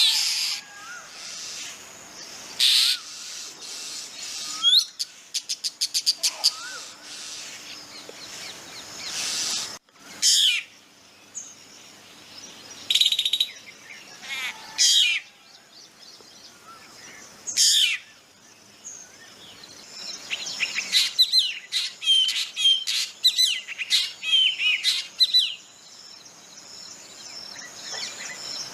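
Black drongo calling: short, loud calls every few seconds. About five seconds in there is a quick run of clicking notes, and in the last third a busy burst of varied, chattering notes.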